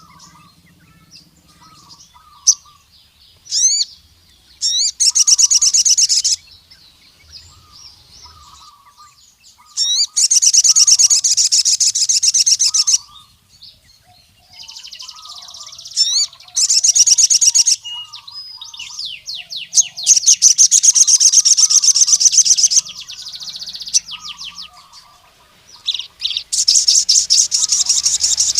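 Male crimson sunbird (sogon) singing loud, fast, high trills in repeated bursts of one to three seconds, with short sharp notes between them. This is the territorial song that calls out a rival male. Faint lower chirping runs underneath.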